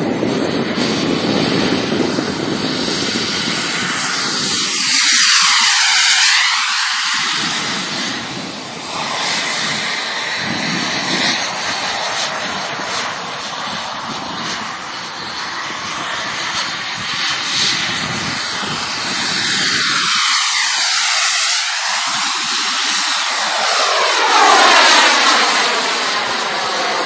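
Fighter jet flying past, a loud continuous roar of jet noise. Its tone sweeps down and back up as it passes, about five seconds in and again in the last few seconds.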